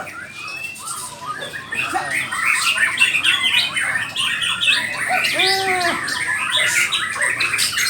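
Several white-rumped shamas (murai batu) singing at once: a dense tangle of overlapping whistles, chirps and trills, with a few drawn-out arching calls a little past the middle.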